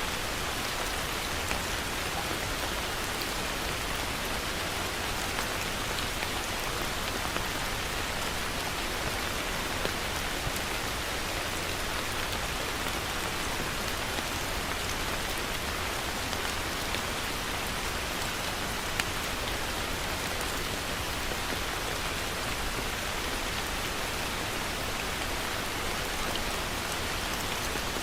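Heavy rain falling steadily on a surface, an even hiss with scattered louder individual drop hits.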